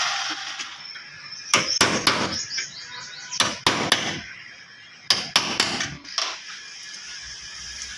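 Hammer blows on the Suzuki WagonR's sheet-metal body panel during dent repair. They come in three quick groups of about three sharp strikes each, with a single strike after them.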